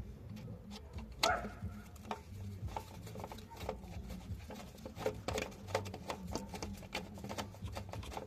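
Irregular light clicks and knocks of tools and parts being handled during thermostat replacement work, the sharpest about a second in, over a steady low hum.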